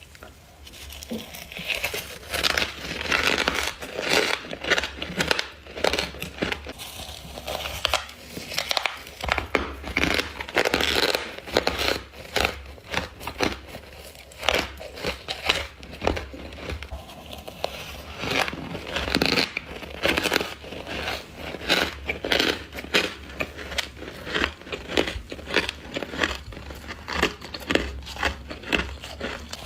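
Close-miked crunching bites into frost-coated crushed ice, one crisp crunch after another in quick clusters with short pauses between.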